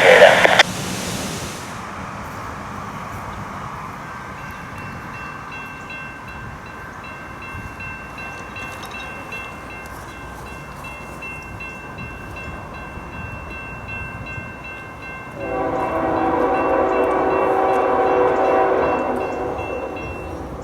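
Freight locomotive air horn sounding one long blast of about four seconds, starting about three-quarters of the way through and fading at the end, over a steady background of train noise.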